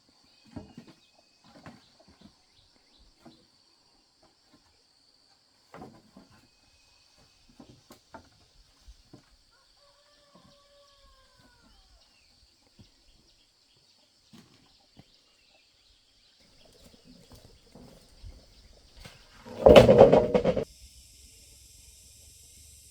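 Scattered faint knocks and clicks over a faint steady high hiss, then near the end a rooster crowing once, loud and about a second long.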